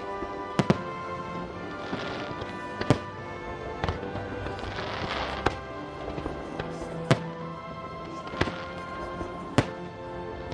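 Fireworks bursting with sharp bangs every second or two, over steady music.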